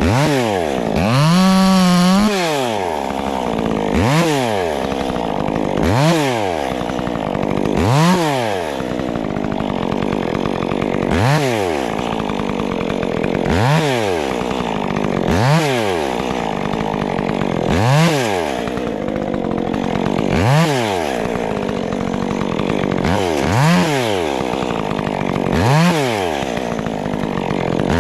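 Stihl MS 400 C two-stroke chainsaw revved up to full throttle and let back down, over and over, about every two to three seconds. One rev is held high about two seconds in.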